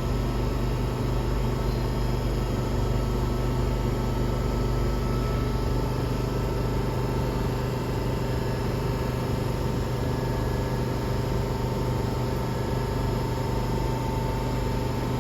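Steady mechanical hum of an MTR M-train, a constant low drone with a faint thin whine above it and no change in level.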